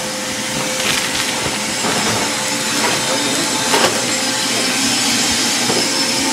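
A motor-driven machine running steadily with a constant hum, with a few knocks and scrapes, the loudest about four seconds in.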